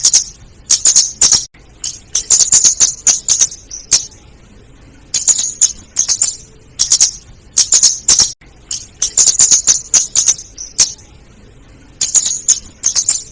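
Female flowerpecker (kemade, also called cabe-cabean or karsenan) giving rapid, high, sharp ticking calls in bursts of under a second to about a second and a half, repeated after short pauses; a lure recording used to draw in the birds.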